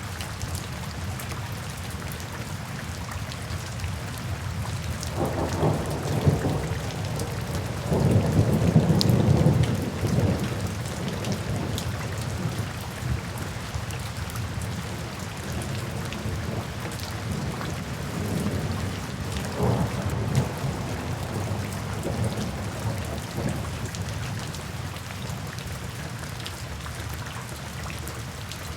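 Steady rain with thunder rumbling: a rumble about five seconds in, the loudest roll from about eight to ten seconds, and a weaker one around twenty seconds.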